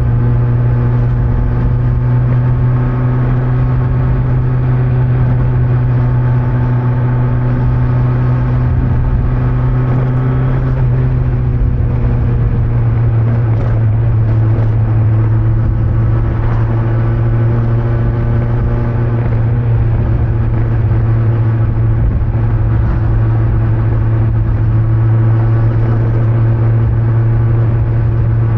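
Kawasaki Z900's inline-four engine running steadily under way on its stock exhaust, with wind and road noise. The engine note shifts once about eleven seconds in.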